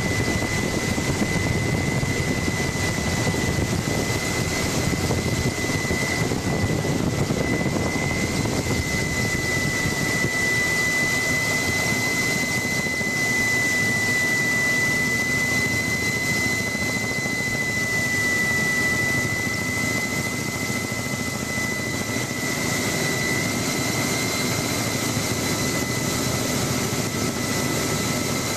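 Helicopter heard from inside the cabin: continuous engine and rotor noise with a high turbine whine held at one steady pitch.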